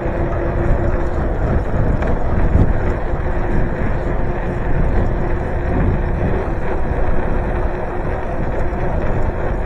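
Steady wind buffeting the microphone, with road and tyre noise from riding along, and a faint steady hum underneath.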